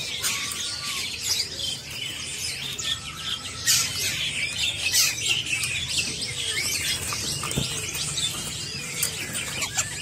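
Many caged songbirds chirping and calling over one another, with wings fluttering and a few sharp clicks.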